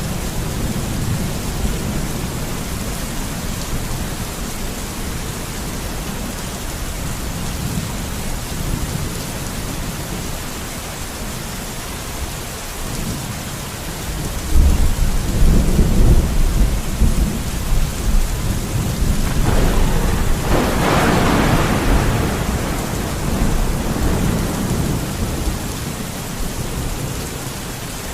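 Steady rain falling in a thunderstorm, with a long rumble of thunder about halfway through and a sharper, brighter crack of thunder a few seconds later.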